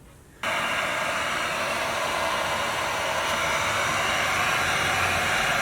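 Electric heat gun blowing hot air in a steady, even hiss, switched on about half a second in, shrinking heat-shrink tubing over a butt-spliced wire.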